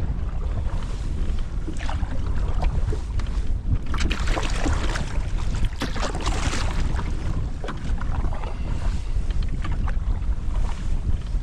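Strong wind buffeting the microphone as a canoe is paddled into a headwind, with water splashing and sloshing from paddle strokes and waves. A longer stretch of splashing comes about four to seven seconds in.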